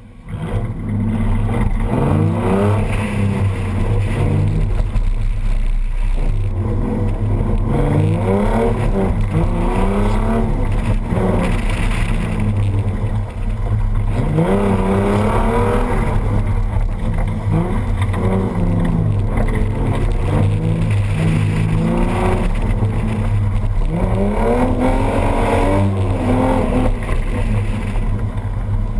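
Ford Mustang engine being driven hard on an autocross course. Its pitch climbs sharply again and again as it accelerates, then drops back as the driver lifts or shifts, over a deep steady rumble. It starts suddenly about half a second in.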